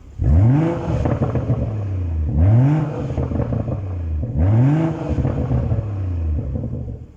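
BMW M140i's turbocharged straight-six, through a custom 3.5-inch oval exhaust with a de-cat downpipe, being revved in Sport mode. It blips up sharply three times, about two seconds apart, is held at raised revs between blips, and drops back near the end.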